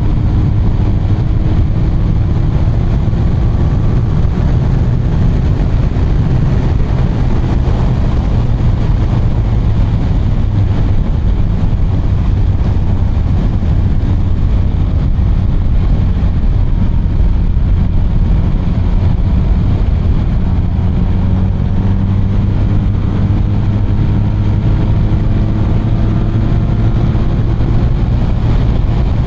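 BMW R 1250 RT motorcycle under way: its boxer-twin engine runs under a steady rush of wind and road noise, with the engine note rising and falling gently as the rider works through the curves.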